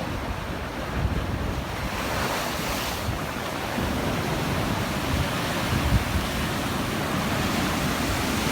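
Sea surf washing in steadily, with wind buffeting the microphone in low rumbling gusts.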